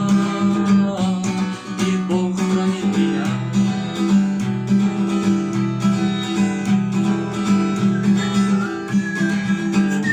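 Acoustic guitar strummed in a steady rhythm, playing the chords of a song.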